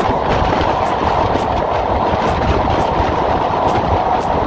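Madhumita Express passenger train running fast across a railway bridge, heard from on board: a very loud, steady rumble and rattle of wheels on the rails.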